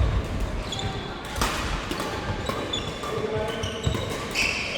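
Badminton rally on an indoor court: sneakers squeaking and feet thudding on the floor, with a sharp racket strike on the shuttlecock about a second and a half in.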